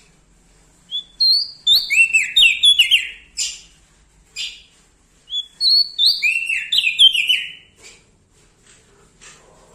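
Prenjak daun (a small songbird) singing loudly in two bursts of quick, falling whistled notes mixed with sharp high chips, with a short pause between them and faint chips near the end.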